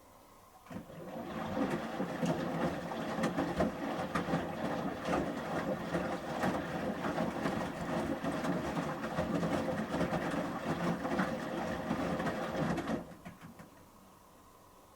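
Samsung Series 5+ front-loading washing machine's drum turning during the main wash, the shirts tumbling and sloshing in the water with a dense rattle, for about twelve seconds before the drum stops for its pause.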